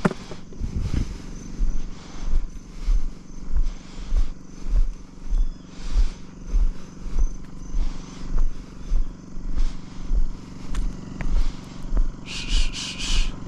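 An engine running steadily with a low hum and a regular throb about twice a second; a short run of four high chirps comes near the end.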